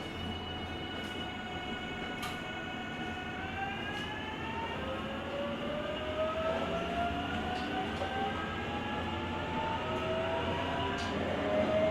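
883 series EMU's GTO-thyristor VVVF inverter and traction motors whining as the train accelerates, heard from inside the car. A stack of tones holds steady for a few seconds, then rises together in pitch from about a third of the way in.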